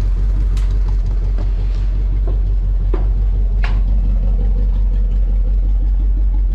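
1971 Chevrolet Chevelle wagon's engine idling steadily after a cold start from two months of sitting, with a few sharp clicks over the idle.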